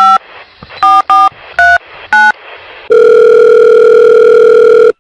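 A phone being dialled: five short keypad touch-tone beeps, then a steady telephone tone of about two seconds that cuts off suddenly.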